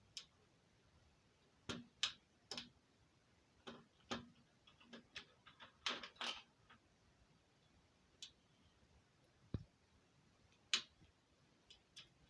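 Scattered light clicks and taps at irregular intervals, bunched closest together in the middle, with a quiet background between them.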